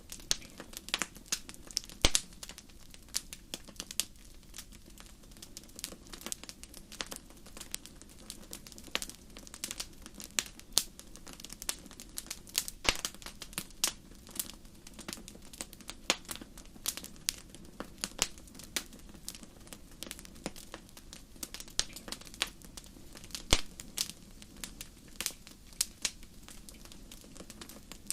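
Wood fire crackling in a fireplace: irregular sharp pops and snaps over a soft steady hiss of the flames.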